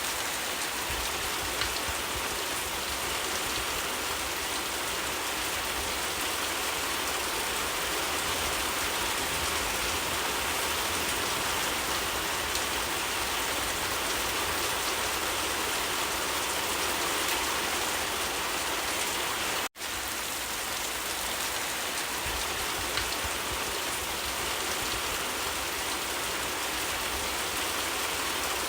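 Steady rain falling, an even hiss with scattered drops. It cuts out to silence for an instant about twenty seconds in, then resumes unchanged.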